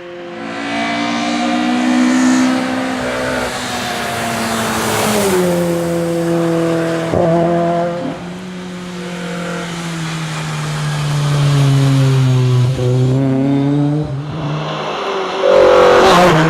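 Fiat 131 Abarth Rallye's engine under hard driving on a rally stage, its note climbing and dropping back again and again as the car accelerates and shifts gear. It gets loudest about a second before the end.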